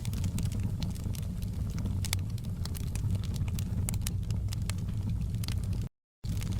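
Wood fire crackling: many irregular sharp pops and snaps over a steady low rumble. The sound cuts out completely for a split second near the end.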